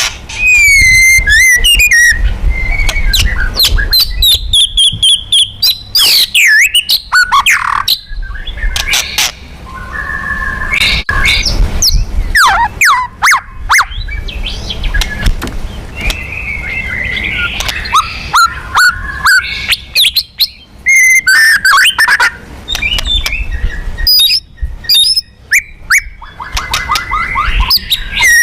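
White-rumped shama singing a loud, varied song of clear whistles, fast sweeping trills and sharp chattering notes, interspersed with mimicked phrases. It is a provoking challenge song used to rile up other male shamas.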